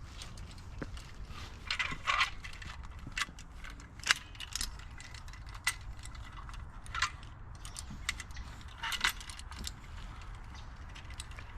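Hand-operated come-along being handled and set up: irregular metallic clicks, clinks and short rattles of its hooks, ratchet and cable, with a sharp click about four seconds in.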